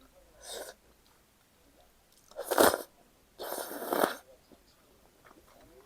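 Close-miked crunchy bites into crispy breaded fried pork cutlet, heard as three short crunches with the loudest in the middle.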